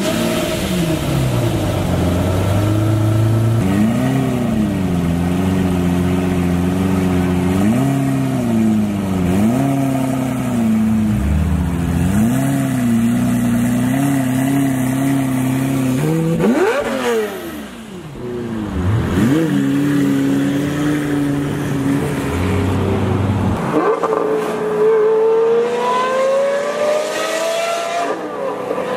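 Lamborghini Murcielago SV's 6.5-litre V12 pulling away at low speed, blipped repeatedly so the pitch swoops up and falls back, with one big rev about two-thirds of the way through. Near the end the sound changes to a smoother engine note climbing steadily in pitch as a car accelerates along the road.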